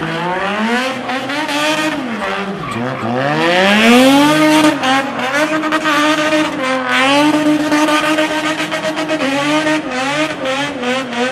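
BMW E30 "Gusheshe" spinning: its engine revs hard, pitch sweeping up and down over the first few seconds, then holds high from about four seconds in with rapid small dips, over the noise of the rear tyres spinning and screeching on the tar.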